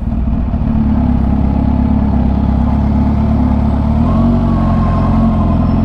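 Supercharged Kawasaki Ninja H2 inline-four with a Competition Werkes exhaust running steadily at low revs while the bike creeps along at walking pace. The engine note changes slightly about four seconds in.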